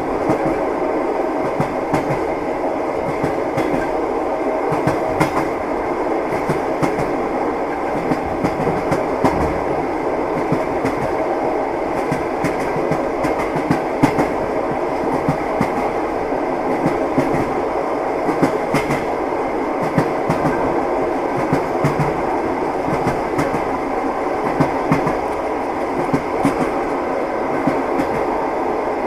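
Train wheels knocking over the rail joints with a steady rumble of a moving railway carriage, short knocks coming every second or so.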